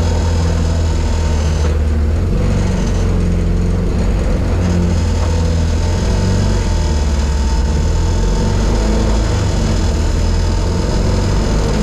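Turbocharged Zetec-swapped Mk1 Ford Fiesta engine running, heard from inside the cabin; the engine note changes pitch in steps a few times.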